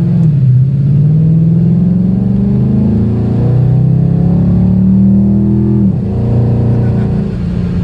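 Ford 5.0 V8 of a 2016 Mustang GT through Kooks catless longtube headers and an MBRP Race catback with H-pipe, accelerating hard. The exhaust note climbs in pitch, drops sharply about three seconds in and again about six seconds in as it shifts up, then pulls on more steadily.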